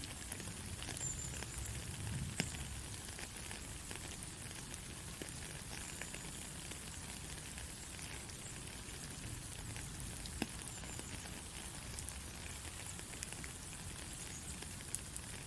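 Heavy rain falling steadily: a continuous hiss with a low rumble underneath and scattered sharper drop hits, the loudest about two seconds in and again about ten seconds in.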